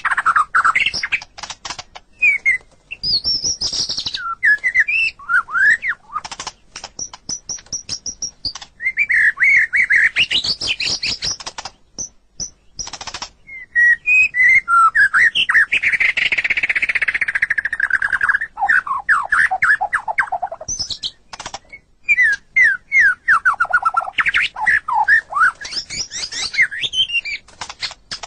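White-rumped shama (murai batu) singing a long, varied song of rapid whistled phrases, quick note runs and clicking notes, with short pauses between phrases and a dense, buzzy passage about halfway through.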